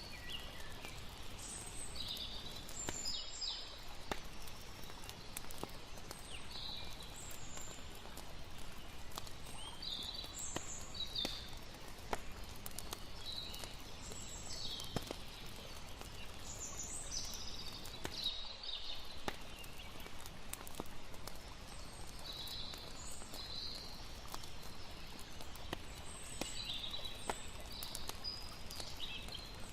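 Layered night ambience: a steady hush of flowing water, a campfire crackling in scattered sharp pops, and frequent irregular high chirps.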